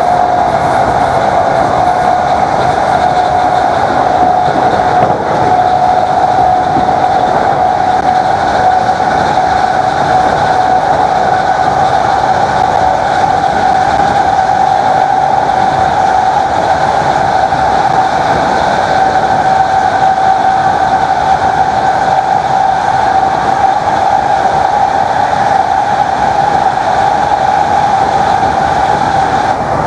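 Class 321 electric multiple unit under way, its traction motors giving a loud steady whine that rises slowly in pitch over a dense rumble of running noise as the train gathers speed.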